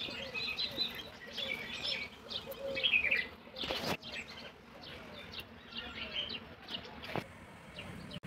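Small birds chirping and calling over and over, with a couple of sharp clicks.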